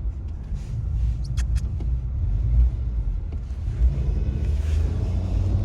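Car interior road noise while driving: a steady low rumble of engine and tyres, with a few brief clicks a little over a second in, growing a little louder near the end.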